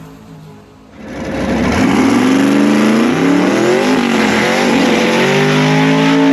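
Drag race car engine accelerating hard down the strip. After a quieter first second it comes in loud, the pitch climbing, dropping briefly about four seconds in at a gear change, then climbing again and holding high.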